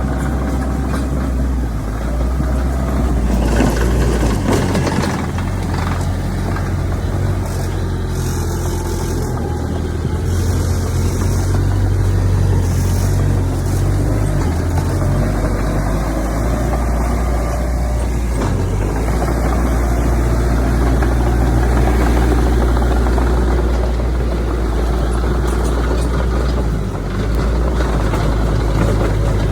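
Heavy diesel earthmoving machinery running steadily and loud, the engine note rising and falling with load, with spells of higher hiss and clatter between about a few seconds and halfway through.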